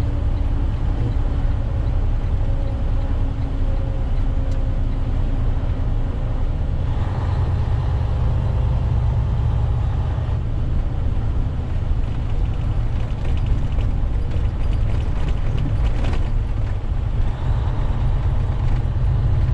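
Semi truck driving, heard from inside the cab: a steady low engine and drivetrain rumble with road noise. A hissing layer swells up twice, once about a third of the way in and again near the end.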